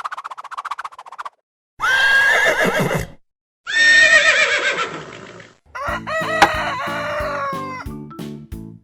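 A rooster crowing three times in a row, after a short rapid pulsing sound. Music with a steady beat starts under the third crow, about six seconds in.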